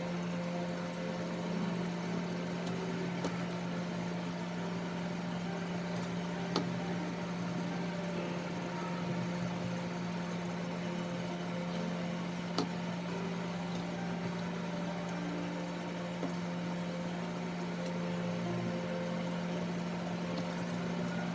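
Electric dog grooming clippers running with a steady hum, with a few sharp clicks.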